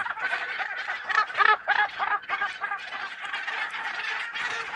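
A Cape gannet colony calling, with many short, overlapping cries repeated in quick succession, as gannets squabble over nest space.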